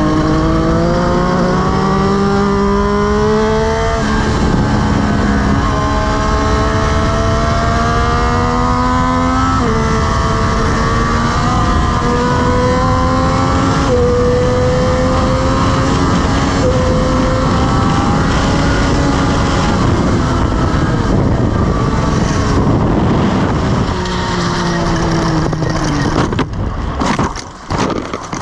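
Triumph Daytona 765 Moto2's three-cylinder engine pulling hard through the gears at full throttle, its pitch climbing and dropping at each upshift, over heavy wind noise. Near the end the throttle shuts and the revs fall, then several loud irregular knocks and scrapes as the bike goes down in a crash.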